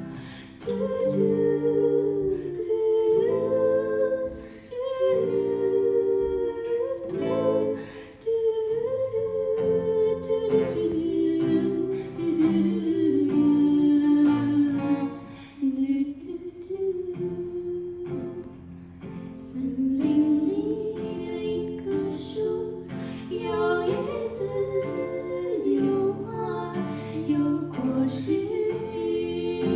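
A live folk song: a voice singing a slow melody over strummed and plucked acoustic guitar.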